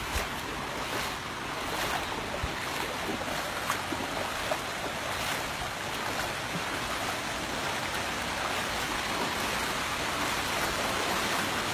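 Floodwater rushing and flowing in a steady wash, rising slightly toward the end, with a few faint clicks.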